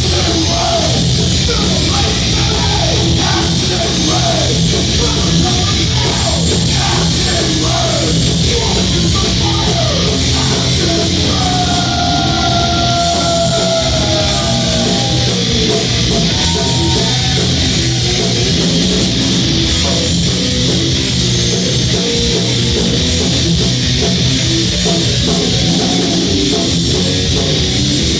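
Crossover thrash band playing live and loud: heavily distorted electric guitars, bass and drums in a dense, steady wall of sound, with sliding, bending guitar notes around the middle.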